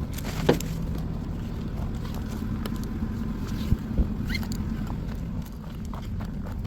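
Gear being handled at a truck: a few scattered knocks and clicks and one short squeak over a steady low hum.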